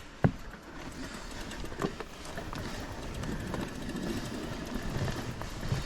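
Steady rumbling outdoor noise, with a sharp knock near the start and a smaller one just before two seconds in.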